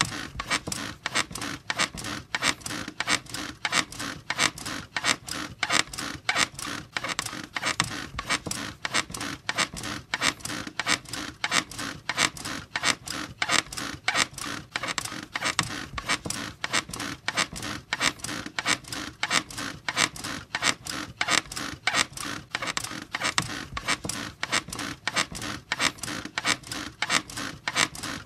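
A bed squeaking over and over in a steady, regular rhythm, about two to three squeaks a second.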